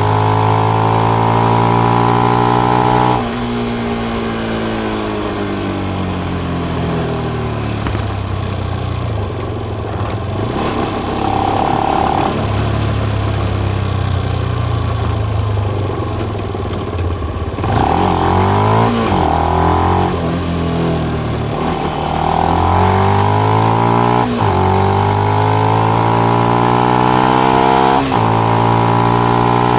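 Benelli BN125 single-cylinder motorcycle engine through its stock exhaust with the dB killer fitted, heard while riding. Revs climb, then drop off sharply about three seconds in and fall away for several seconds as it slows, hold fairly steady, then about halfway through it pulls again through several gear changes, each a quick dip in revs before they climb again.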